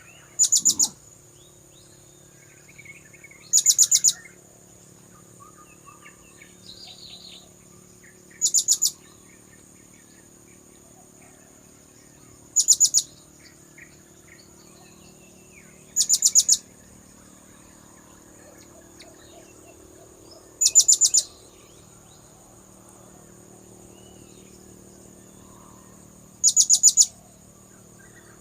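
Blue-crowned hanging parrot (serindit) calls used as a lure: seven short bursts of rapid, high-pitched chirps, repeated every few seconds. Faint background bird and insect sounds and a steady high tone lie underneath.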